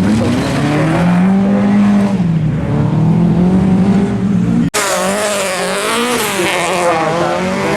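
Rally car engine revving hard, its note rising and falling as it is driven on the stage. About halfway through the sound cuts out for an instant and resumes with another engine note, higher and more wavering.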